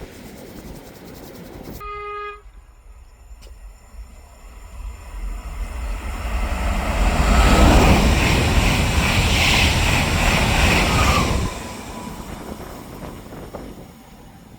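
Train horn giving a short blast about two seconds in, followed by a train passing, its rumble building to its loudest between about seven and eleven seconds, then dropping away sharply and fading.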